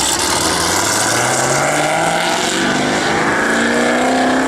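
A performance car's engine accelerating hard and loud, its pitch rising steadily as the revs climb.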